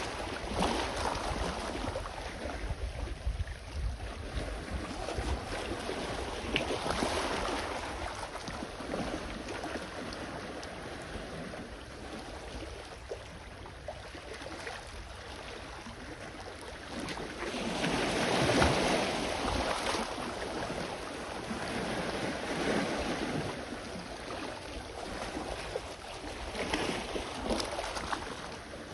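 Small sea waves washing onto the shore in slow surges every few seconds, the biggest surge about two-thirds of the way through, over a low rumble of wind on the microphone.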